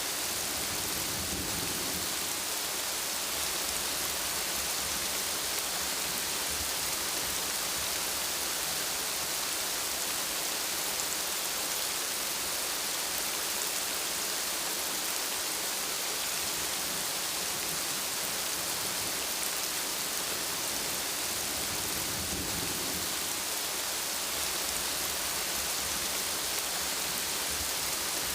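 Steady rain falling, an even hiss of many drops. A low thunder rumble swells faintly under it near the start and again about three-quarters of the way through.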